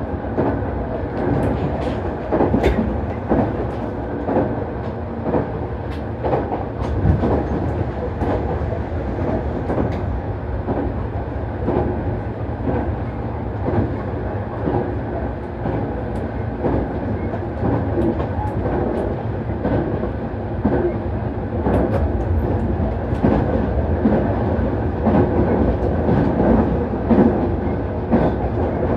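Nankai Main Line express electric train running: a steady rumble of wheels on track with short, irregular clicks of the wheels passing over rail joints.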